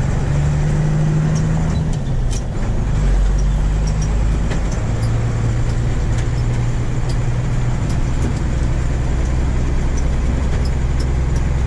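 Work truck engine running steadily while driving. The engine note shifts about two seconds in and settles again around five seconds, with scattered light rattles and clicks over it.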